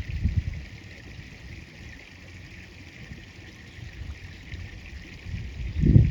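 Wind buffeting the microphone in low rumbling gusts, one just after the start and a stronger one near the end, over a steady rush of flowing river water.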